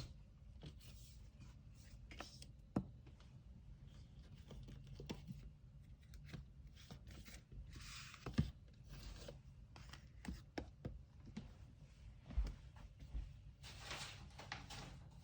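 Paper packing materials being handled: faint rubbing and rustling, with short tearing sounds about halfway through and near the end, and scattered light taps and knocks.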